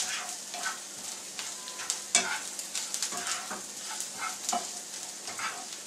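Chopped onions with fennel and sesame seeds sautéing in a nonstick frying pan, sizzling while a slotted spatula stirs and scrapes them around the pan in irregular strokes, the sharpest about two seconds in.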